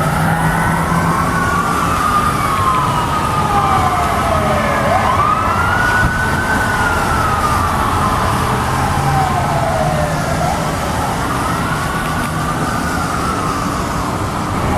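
Fire apparatus sirens wailing, at least two overlapping and out of step, each rising and falling slowly in pitch, over a steady low engine hum.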